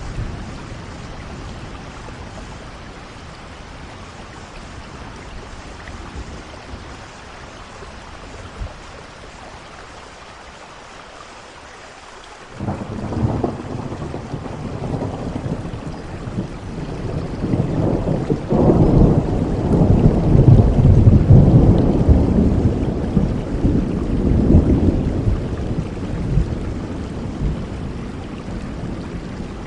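Steady rain falling, with a long roll of thunder that sets in suddenly about twelve seconds in, grows to its loudest past the middle and slowly dies away.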